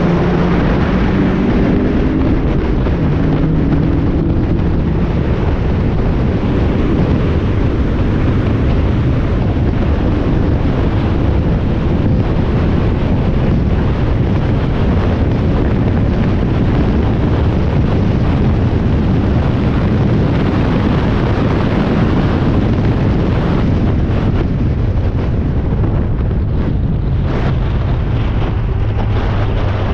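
Spec Miata race car's four-cylinder engine on track, with a heavy rush of wind noise on the onboard microphone. The engine pitch steps and glides through gear changes early on, the wind and road rush dominates the middle, and near the end the engine settles to a low steady note.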